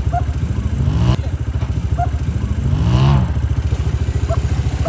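Utility ATV engine running, its note rising and falling twice, about a second in and again about three seconds in.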